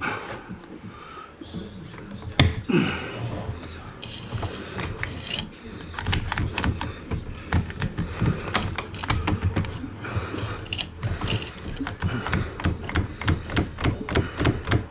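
Rapid ratcheting clicks from a hand tool being worked, several clicks a second from about six seconds in, with a single sharp knock about two and a half seconds in.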